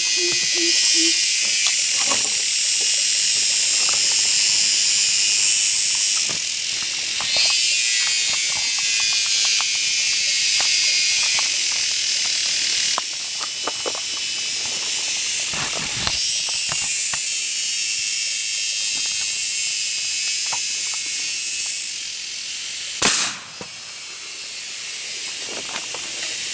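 Loud, steady chorus of jungle insects, typical of cicadas, that swells and fades in stages every few seconds, with scattered light clicks and one sharp crack near the end.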